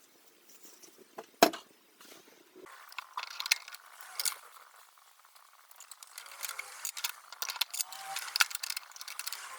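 Workshop handling noise: one sharp knock about a second and a half in, then irregular small clicks and rattles of hard parts being handled, growing busier in the second half.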